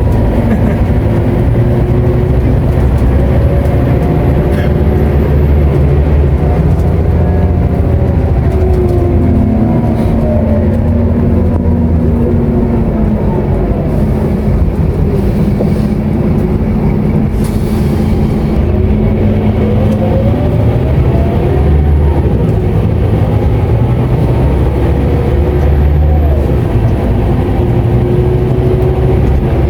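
Scania K230UB city bus heard from inside the cabin: its Euro IV diesel engine rumbles steadily while pulling away and cruising, its pitch rising and falling several times as the automatic gearbox changes gear. A faint high whine rides above it.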